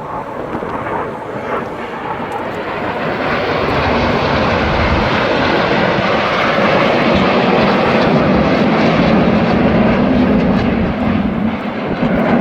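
Red Arrows BAE Hawk T1 jets flying past, their jet engine noise growing louder over the first few seconds and then holding steady.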